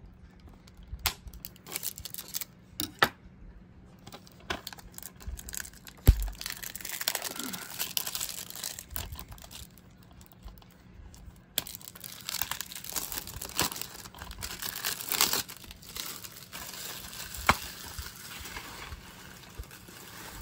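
Plastic shrink-wrap crinkling and tearing off a DVD case, with scattered sharp clicks and snaps of the plastic case being handled.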